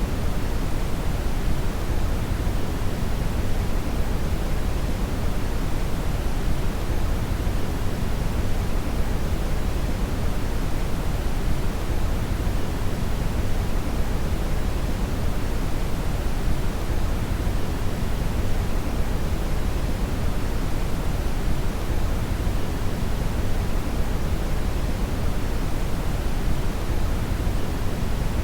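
Steady brown noise (red noise): an even, deep hiss weighted heavily toward the bass, with no changes or events.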